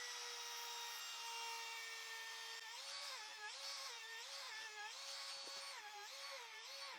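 Handheld router with a 45-degree chamfer bit running at a steady high whine, then bevelling the edges of a wooden piece: from about a third of the way in, the motor pitch dips and recovers over and over as the bit bites into the wood.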